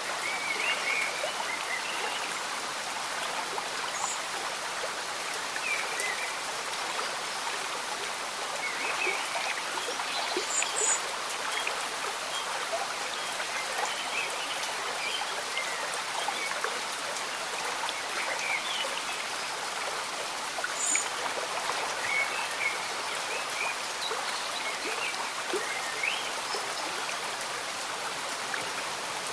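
Slow-moving stream bubbling and trickling under steady gentle rain, with many small scattered drips and gurgles.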